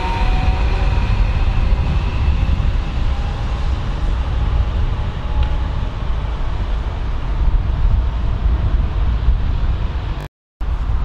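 ICE 3 high-speed electric train moving away: its electric whine fades over the first few seconds, leaving a steady low rumble. The sound cuts out for a moment near the end.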